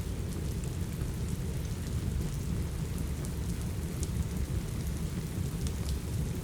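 Steady rain with a deep, even low rumble, mixed with scattered sharp crackles from a wood fire in a fireplace.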